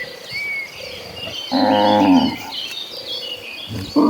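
Cattle mooing: one loud moo about a second and a half in, the start of another near the end, with small birds chirping throughout.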